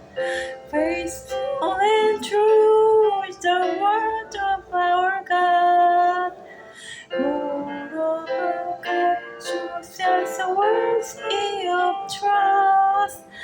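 Music: a woman singing a slow, sustained melody in phrases.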